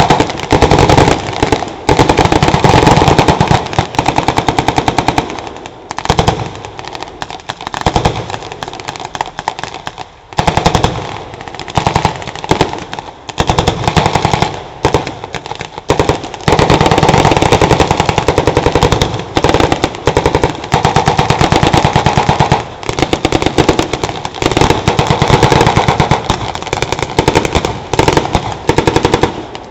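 Blank-firing small arms and machine guns in a mock firefight: long rapid automatic bursts overlapping with single shots, thinning briefly a few times in the first half and then running dense again.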